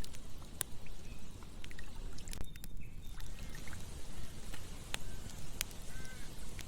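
Campfire crackling, with scattered sharp pops, over the steady rush of a flowing river.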